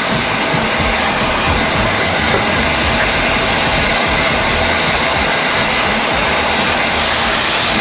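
Steam tank locomotive close by, giving off a steady, loud rushing hiss of steam over a low, uneven rumble.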